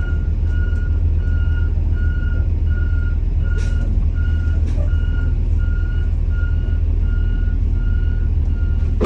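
A school bus's backup alarm beeping steadily, about twice a second, over the low, steady running of its engine as it reverses.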